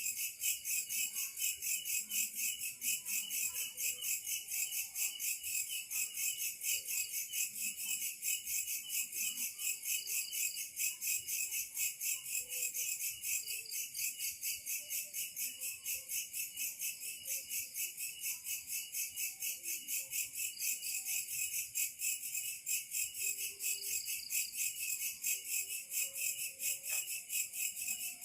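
A dense insect chorus chirping in a fast, even, high-pitched pulse of about five to six beats a second, steady throughout.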